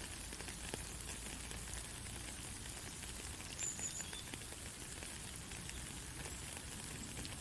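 Steady rain falling: an even hiss with scattered ticks of single drops, and a brief high chirp a little past halfway.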